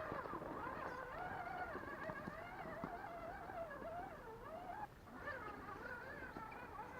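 Electric drive motor and gear whine of a 1/10-scale RC rock crawler, its pitch wavering up and down with the throttle. It cuts out briefly about five seconds in, then picks up again.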